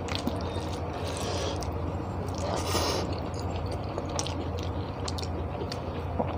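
Mouth chewing of black rice and spicy egg curry, with small wet clicks, while fingers mix the rice on a steel plate; a steady low hum runs beneath.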